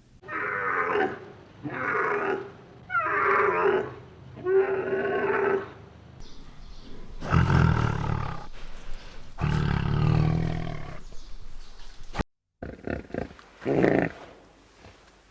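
A series of animal calls: four pitched cries of about a second each, then two longer, deeper calls, and one more short call after a brief cut.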